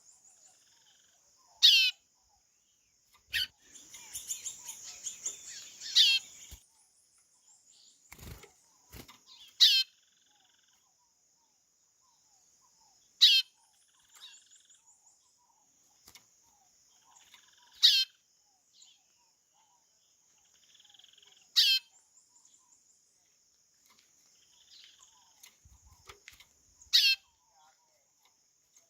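White-bellied seedeater (chorão) giving short falling call notes, about eight times at irregular intervals of a few seconds, with a brief twittering passage after the second call. A steady high insect drone runs underneath.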